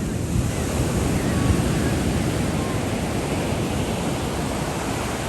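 Steady rushing noise of wind on the microphone and the sea, strongest at the bottom end and swelling a little around the middle.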